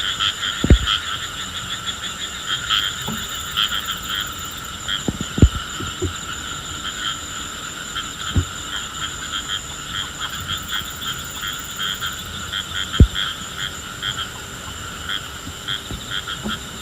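A chorus of frogs calling in dense, rapid pulses, with a steady high tone and a few sharp low thumps scattered through.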